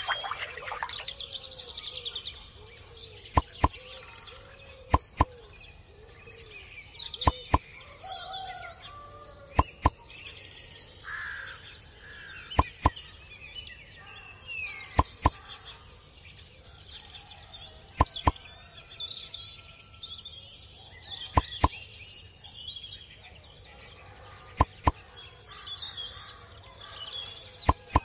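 Small birds chirping and singing, broken every two to three seconds by a sharp double click, the loudest sound. A thin water spray from a small pump's hose hisses and stops about a second in.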